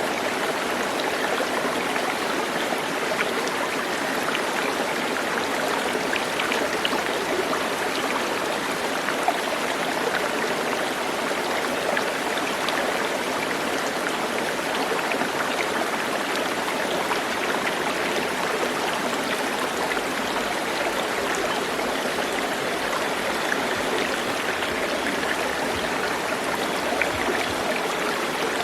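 Steady rush of running water, such as a stream flowing over rocks, even throughout with small splashes.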